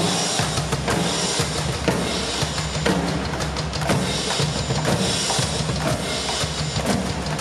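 Drum-heavy music with a steady beat of bass drum and snare.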